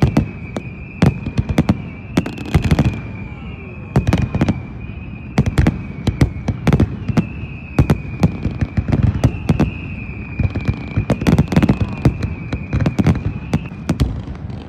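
New Year fireworks going off: a dense, irregular run of sharp cracks and deeper bangs from rockets and firecrackers. A steady high whine runs under the bangs and stops near the end.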